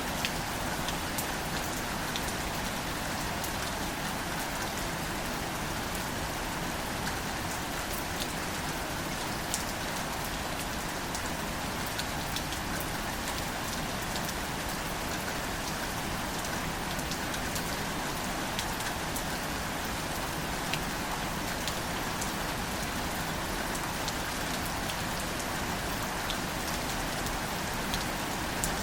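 Steady rain falling on plants and leaves, with many separate drops ticking against a continuous patter.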